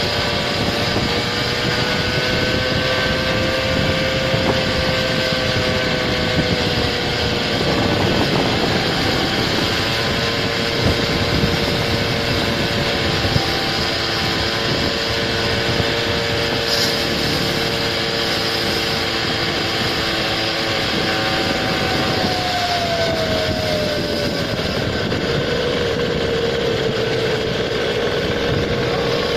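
Small engine of a motorized stand-up scooter running under way, a high, buzzing engine note that holds steady and twice falls in pitch as the throttle eases.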